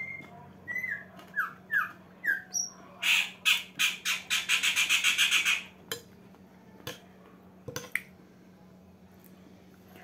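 A bird squawking: a few short falling calls, then a loud, harsh, rapid run of squawks lasting about three seconds, followed by a couple of short clicks.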